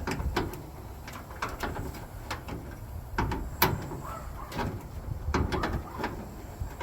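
Irregular metallic clicks and knocks of hand wrenches working a bolt, with one sharper knock about halfway through.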